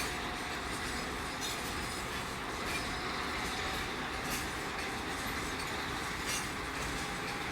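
Freight train rolling by, its wagons rumbling steadily, with a few sharp clicks of wheels over the rails and a faint thin squeal.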